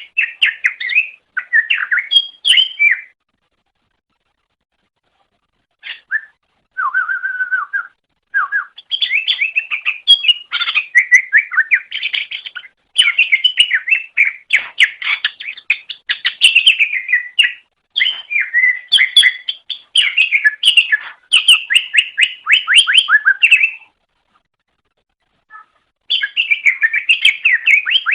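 Cucak ijo (green leafbird) singing a fast, varied, chattering song of quick sliding notes. It comes in long bursts and breaks off twice: once about three seconds in and again near the end.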